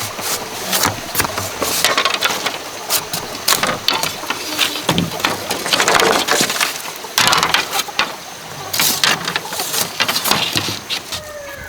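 Bamboo being worked by hand: a dense, irregular run of cracks, snaps and scrapes from the wood.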